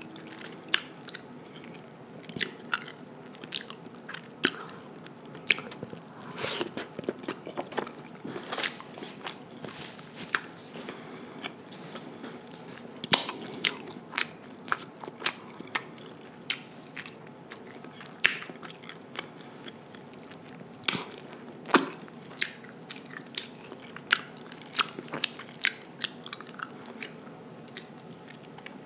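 Close-miked wet chewing of sauce-soaked seafood boil food, with frequent irregular sharp smacking and clicking mouth sounds.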